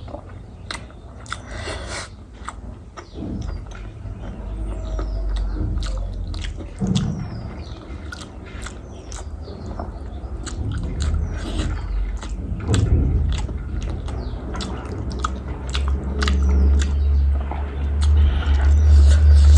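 A person eating close to the microphone: chewing with many small wet mouth clicks and smacks. A low rumble grows louder over the last few seconds.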